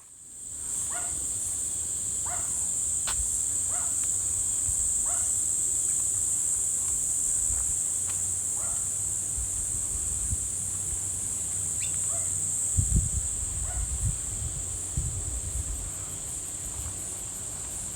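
Insects droning steadily at one high pitch. Short falling calls repeat over the drone about once a second, and a few low thumps come near the end.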